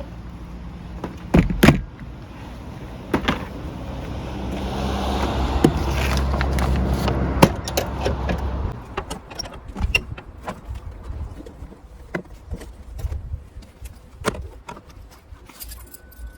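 Kei truck engine running with a low steady hum, louder for a few seconds in the middle, then cutting off about nine seconds in. Scattered clicks and knocks follow.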